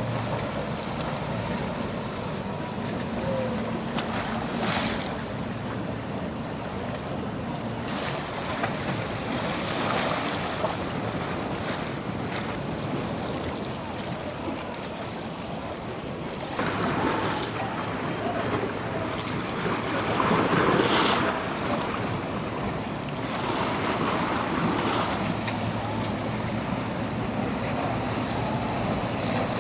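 Waves surging and breaking against the inlet jetty, with wind buffeting the microphone and the low drone of boat engines underneath. The water noise swells loudest a little past the middle.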